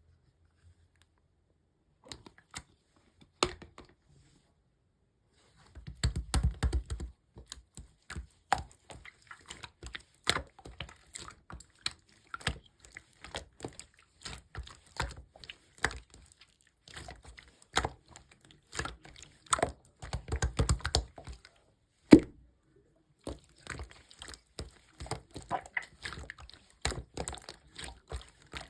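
Clear red slime being squished and worked by hand, giving rapid sticky pops and crackling clicks. A single louder knock comes about two-thirds of the way through.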